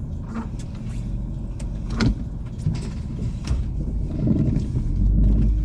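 A car driving, heard from inside the cabin: a steady low rumble of engine and tyre noise, with a couple of short clicks.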